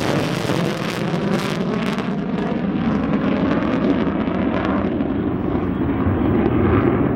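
Jet noise from a B-1B Lancer's four turbofan engines as the bomber passes and moves away: a loud, steady rumble whose hiss fades after about two seconds, leaving a deep drone.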